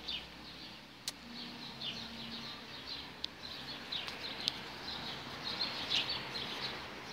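Small birds chirping, many short high chirps in quick succession, with a few sharp clicks.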